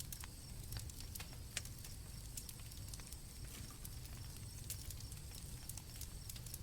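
Campfire crackling: sharp, irregular pops over a steady low rumble, with crickets chirping faintly behind.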